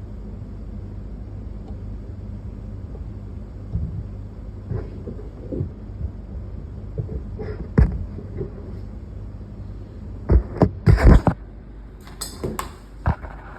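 Objects being handled on a work surface: scattered clicks and knocks over a steady low hum, with a quick run of loud knocks about ten seconds in and a few more just after.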